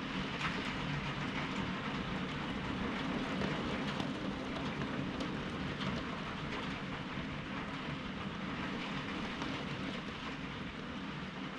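Steady rain falling, with scattered light ticks of drops.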